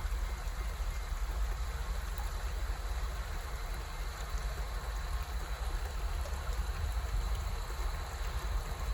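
Steady snowstorm noise: an even hiss over a low, fluctuating rumble, typical of wind buffeting the microphone.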